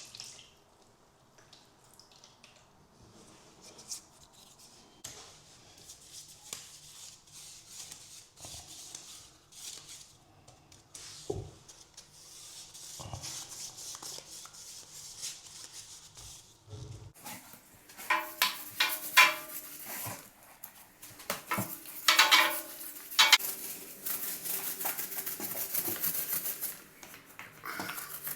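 Clinks and knocks of a paint tin and plastic roller tray being handled, then a small paint roller working peel-stop sealer in the tray and onto the wall, with a rhythmic swishing and rubbing that gets louder in the last ten seconds or so.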